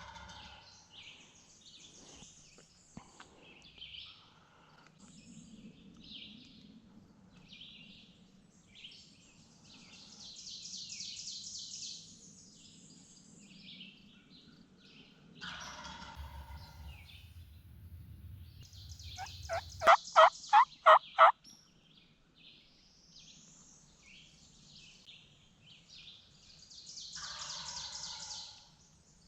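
Wild turkey gobbler gobbling three times, with songbirds singing throughout. About two-thirds in comes a much louder, closer run of about six turkey yelps.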